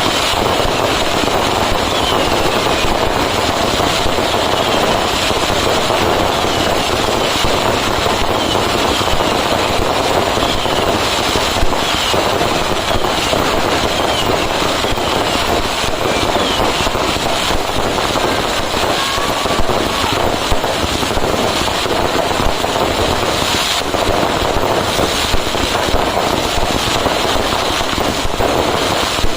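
A dense fireworks barrage: firecrackers going off so rapidly that they merge into one continuous crackle, steady in loudness throughout, with short whistling glides in the first half.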